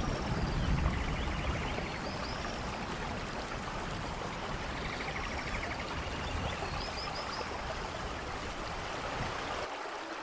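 Steady heavy rainfall in a rainforest thunderstorm, with the tail of a low thunder rumble dying away over the first second or two. Faint high chirps sound now and then over the rain.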